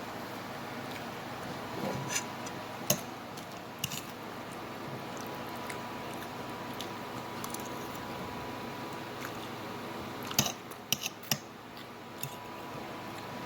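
Eating with a fork from a plate: a few sharp clicks of a utensil against the dish, scattered early and then in a quick cluster of four near the end, over a steady low background hum.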